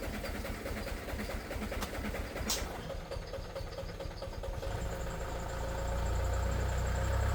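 An engine idling with a steady low rumble that grows louder about five seconds in.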